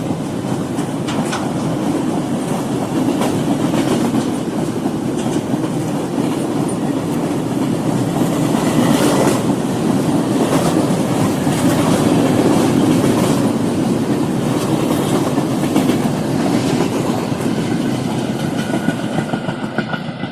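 Freight train passing, its wagons' wheels clacking over the rail joints over a steady rumble that fades away near the end.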